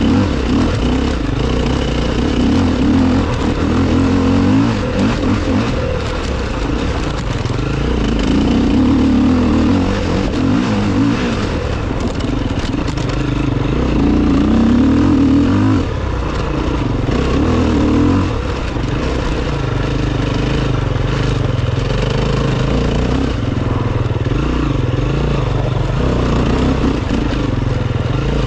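Enduro motorcycle engine revving up and easing off again and again as the bike is ridden around the course.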